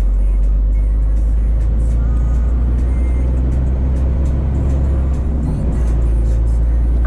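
Scania truck driving, its diesel engine and road noise a steady low drone. Faint music plays over it.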